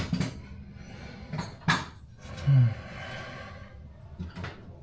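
Metal hand tools clinking and knocking as someone rummages through a toolbox for a pair of locking pliers: a few separate knocks, the loudest about a second and a half in.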